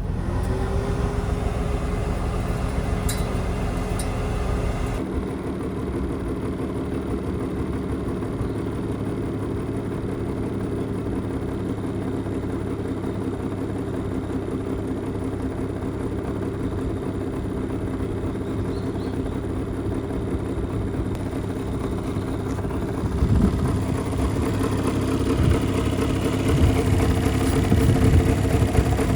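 Mitsubishi Minica 360 GSS's small two-stroke twin-cylinder engine with twin Solex carburettors running steadily, growing louder and rougher near the end.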